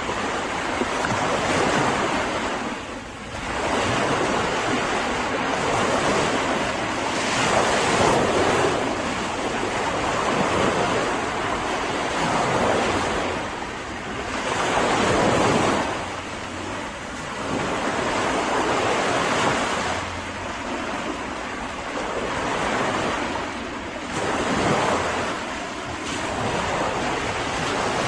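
Mediterranean sea waves breaking and washing on a beach, the surf swelling and falling back every few seconds.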